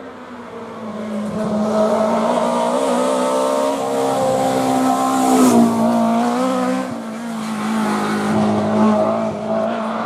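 Historic rally car's engine held at high revs at a steady pitch, growing louder from about a second in. It is loudest about five and a half seconds in, where the pitch drops slightly as the car passes, then runs on as it moves away.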